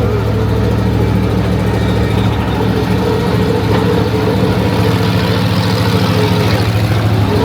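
Monster truck's big engine running steadily with an even, low hum.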